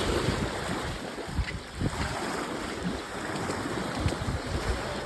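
Wind buffeting the microphone in uneven low gusts, over a steady wash of water.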